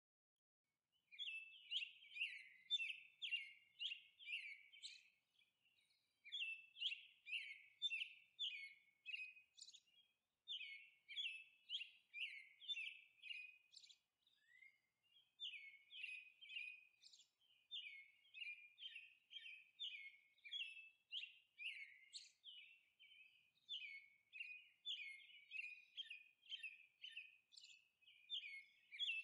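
Birds chirping: quick, short chirps about two a second, in runs of a few seconds with brief pauses between them.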